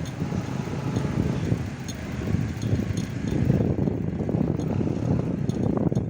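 Wind rumbling on the microphone with road noise from a bicycle in motion, a steady low rush that rises and falls.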